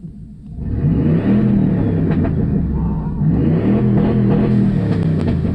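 1997 Ford F-150 engine revving with the muffler cut out of the exhaust, loud and unmuffled. It comes in suddenly under a second in and climbs and drops in pitch twice.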